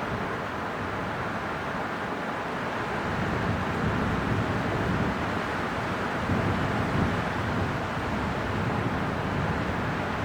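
Winter wind blowing steadily, a continuous rushing noise that swells in gusts about halfway through.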